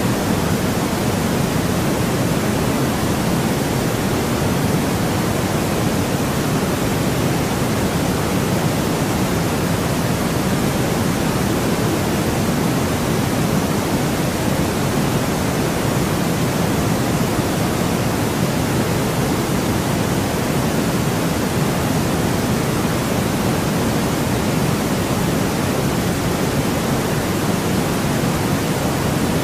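Steady synthetic noise with no events or changes, heavier in the low end than pure white noise, like a soft pink noise.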